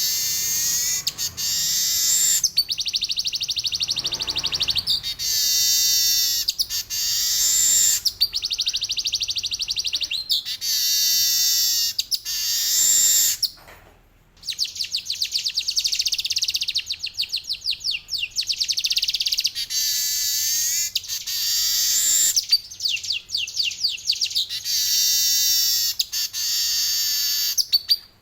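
Male weaver bird (manyar) singing: rapid, high-pitched buzzy trills and chattering phrases a second or two long, some with sweeping up-and-down strokes, with a short break about halfway.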